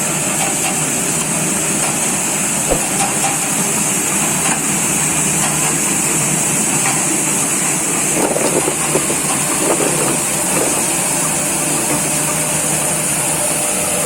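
A fruit and vegetable washing machine running steadily: a constant motor hum under a loud even hiss, with a few faint squeaks about eight to ten seconds in.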